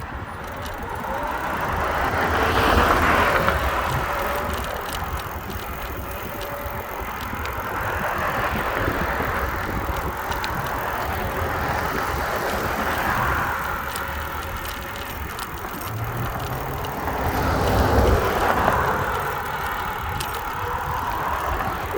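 Road traffic going by as the bicycle rides alongside: about four cars swell up and fade away, over a steady low rumble of wind on the microphone.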